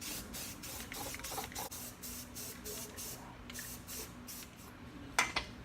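Primer being sprayed onto an engine block in short hissing bursts, about three a second, which stop a little before the end. A single sharp click follows near the end.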